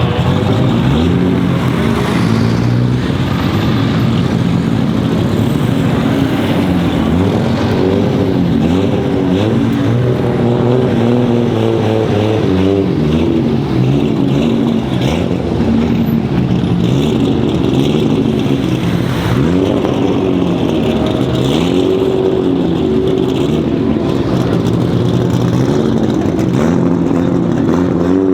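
Straight-piped, single-turbo 2JZ inline-six of a heavily modified Toyota Supra MK4, running loud and uneven, its pitch wavering up and down with light throttle blips.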